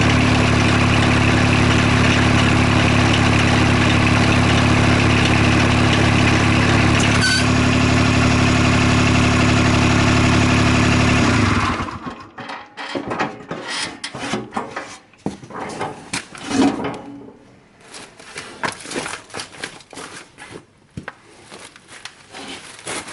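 John Deere 430 garden tractor's small diesel engine running steadily with the loader's PTO drive detached, then shutting off about halfway through. After it stops, scattered knocks and rattles.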